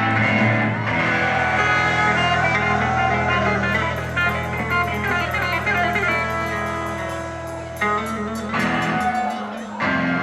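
Live band playing an instrumental passage led by strummed guitar, with no singing.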